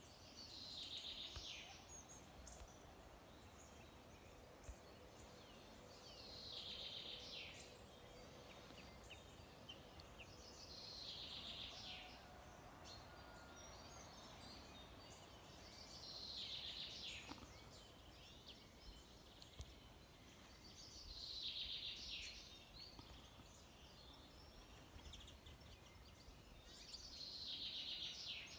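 A small bird singing faintly, a short phrase that falls in pitch, repeated about every five seconds, six times, over a quiet outdoor background.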